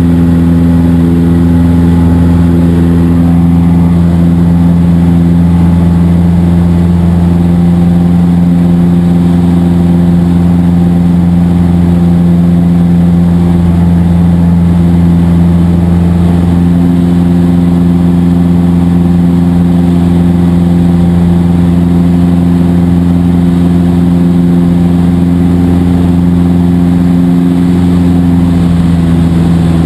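Cessna 172 SP's four-cylinder Lycoming engine and propeller running steadily at a constant power setting, with an even, unchanging drone.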